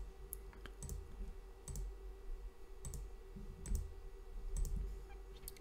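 Computer mouse clicking, a handful of single clicks spaced irregularly about a second apart, over a faint steady electrical hum.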